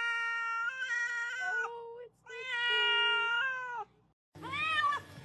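A cat yowling in two long, drawn-out, steady-pitched calls. After a break come shorter calls that rise and fall in pitch.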